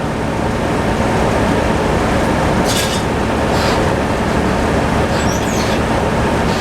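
Tractor engine running steadily, driving the sawmill. Brief high hissing sounds come over it about three seconds in, and again near the end.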